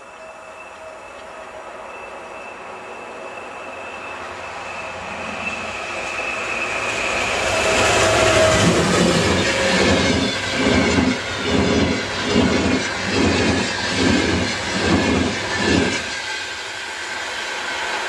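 Express passenger train hauled by a VR Sr1 electric locomotive approaching and passing at speed. A rising rumble carries a high whine that drops in pitch as the locomotive goes by. Then the coaches' wheels beat over the rails in a rapid, regular clatter for about six seconds before it gives way to a steady rush.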